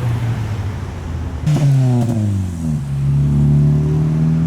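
Supercharged Mercedes car engine driving by. A steady engine note gets suddenly louder about a second and a half in, its pitch falls, then holds steady under load.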